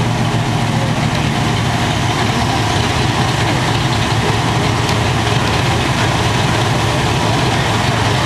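Modified 4x4 pulling truck's engine running steadily at a constant speed, with no revving.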